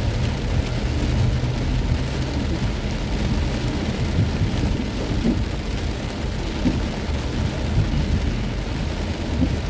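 Heavy rain pelting a moving car, over the steady low rumble of the car and its tyres on the wet road.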